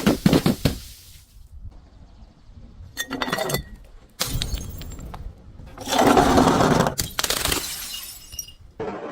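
Glass bottles breaking and crunching: a quick run of sharp cracks at the start, then several longer bouts of glass shattering and grinding, loudest about six seconds in.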